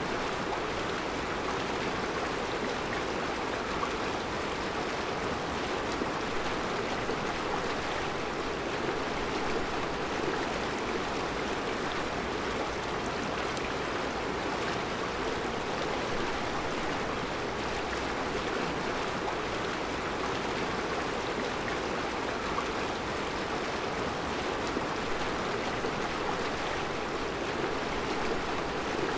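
Mountain river flowing steadily over round rocks in a rocky riverbed: an even, unbroken rush of water.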